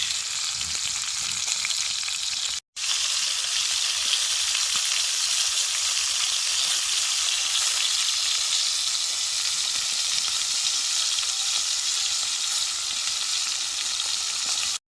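Fillet steaks sizzling steadily as they fry over a campfire, with a momentary break about three seconds in.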